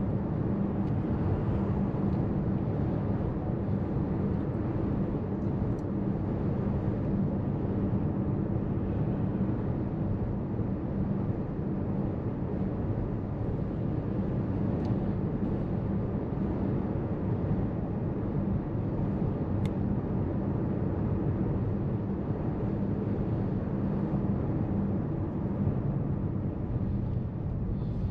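Car cabin noise while driving: steady engine and tyre rumble from inside the moving car.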